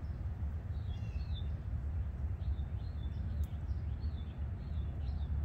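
Small birds chirping: a few short chirps about a second in, then a quicker run of chirps from about two and a half seconds in, over a steady low rumble.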